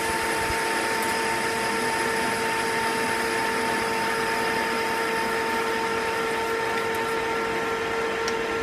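Metal lathe running steadily with an even whine while taking a facing cut in 1018 cold-rolled steel.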